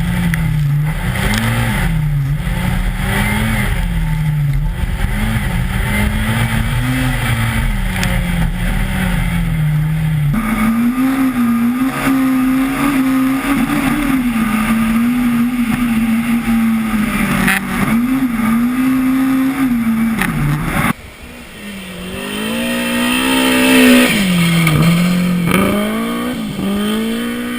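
BMW M3 engine revving up and down as the car drifts on an ice track, the note swinging with throttle and gear changes. The sound changes abruptly twice, about ten and twenty-one seconds in, and near the end the revs climb and drop sharply several times.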